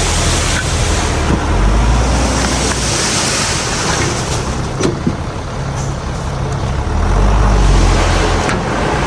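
Heavy diesel earthmoving machinery running with a deep rumble that swells in the last couple of seconds. A few sharp clanks come about halfway through and again near the end, and a hiss rises about three seconds in.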